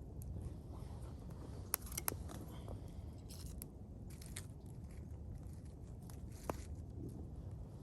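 Sharp crisp clicks and crunches, a handful of them, over a steady low rumble.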